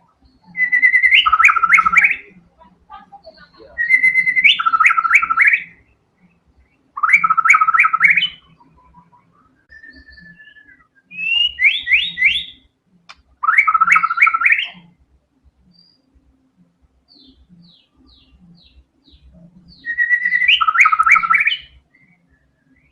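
White-rumped shama singing in full song: six loud phrases, each a short whistle followed by a quick run of ringing notes, with brief pauses between them and a few faint notes in the gaps.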